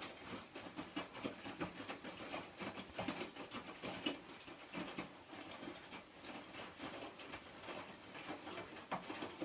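Hotpoint washing machine on its wash cycle: the drum turning the wet laundry, with an irregular patter of soft knocks and sloshing.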